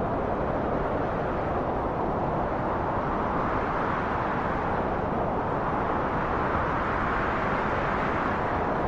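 Steady wind blowing in slow swells and lulls, a rushing noise that brightens around three and six seconds in and eases between.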